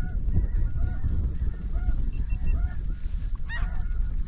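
Snow geese calling: many short, overlapping honks repeating throughout, with one louder, nearer call about three and a half seconds in.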